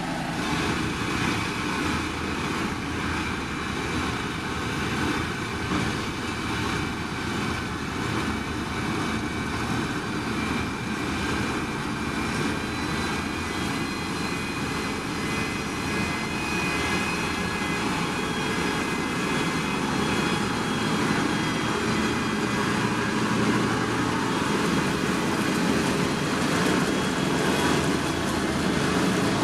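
Heavy diesel earthmoving machinery running steadily with a high whine over the engine noise, growing a little louder near the end.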